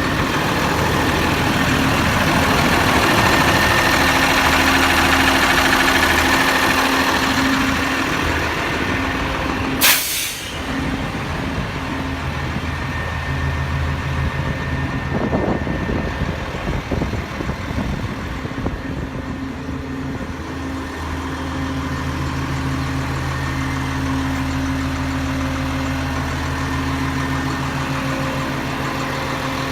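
Sterling grapple truck's Cummins six-cylinder turbo diesel running, held at raised revs for the first several seconds and then settling to a steady idle. About ten seconds in, a short loud hiss of air from the air brakes.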